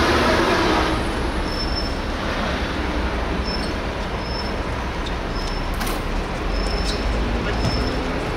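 Steady road-traffic rumble, with a short high chirp repeating about once a second and a couple of sharp knocks.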